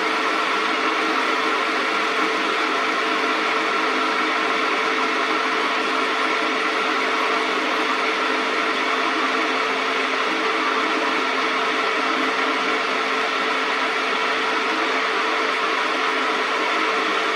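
Metal lathe running steadily, its motor and drive giving a constant hum with several held tones.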